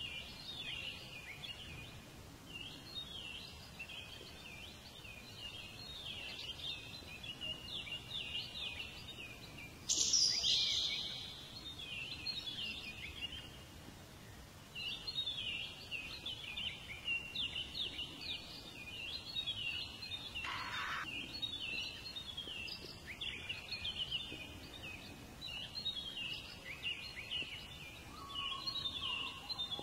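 Many small birds chirping and twittering continuously in quick, overlapping calls, with a sudden louder burst about ten seconds in.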